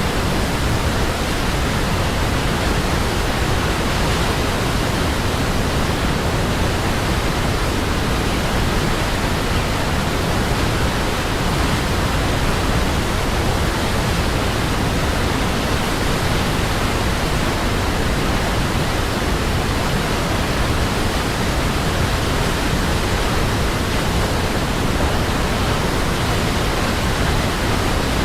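Waterfall: falling water in a steady, unbroken rush, even from low to high pitch, with no other sound standing out.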